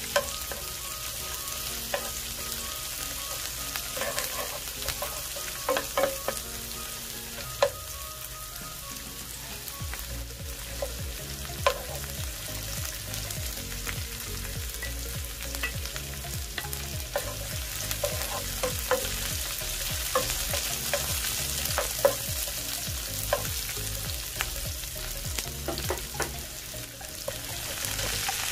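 Onion, garlic and ginger sizzling in oil in a nonstick frying pan, with a wooden spatula knocking and scraping against the pan every second or two. Near the end the sizzle gets louder as raw squid is dropped into the hot pan.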